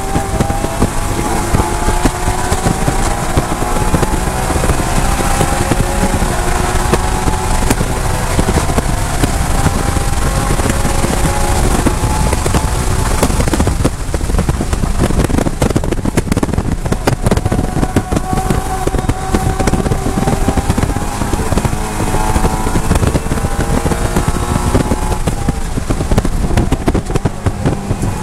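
BMW E92 M3's 4.0-litre V8 at full throttle, its pitch climbing steadily as it shifts up through the gears, heard from inside the car. About halfway through it comes off the throttle for hard braking from high speed with downshifts, then pulls hard again with the pitch rising.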